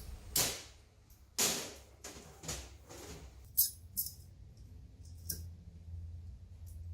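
A series of sharp metallic clinks and knocks, about six in five seconds, some with a short ring, as metal tools and engine parts are handled and set down.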